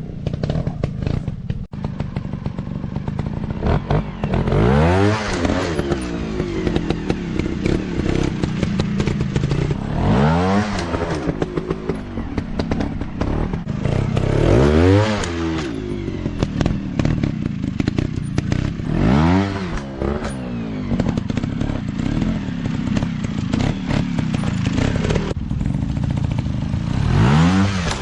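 Dirt bike engines revving hard and dropping back in repeated surges, about every four to five seconds, with scattered knocks and clatter between them.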